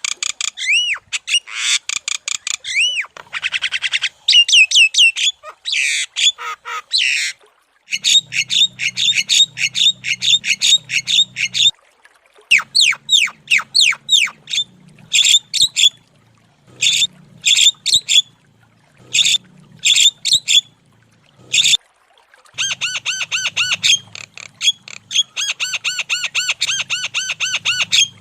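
Javan myna calling in fast runs of sharp, squawking notes, many to the second, in bursts broken by short pauses.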